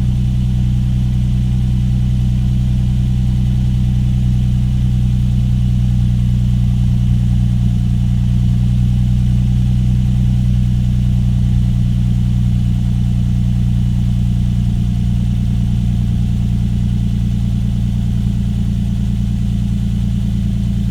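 2022 Toyota Tundra's twin-turbo V6 idling steadily after a cold start, heard through an aftermarket Atlantic Built slip-on exhaust with a deep, even exhaust note.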